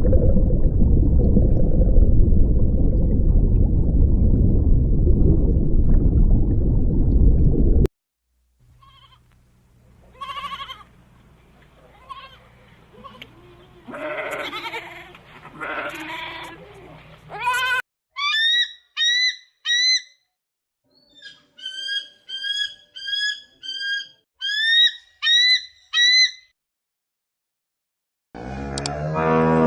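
A series of different animal calls, one after another. It opens with a loud, low, rough call lasting about eight seconds, followed by quieter scattered calls. Next comes a run of about a dozen short, high calls, each rising then falling. Near the end a cow starts mooing.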